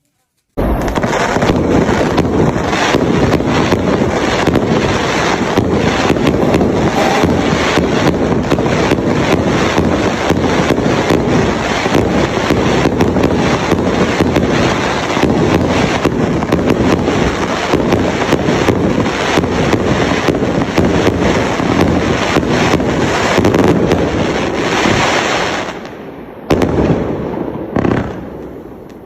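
An 18-combination firework display cake firing a rapid, continuous barrage of shots from about half a second in. Near the end it thins out to a few separate bursts.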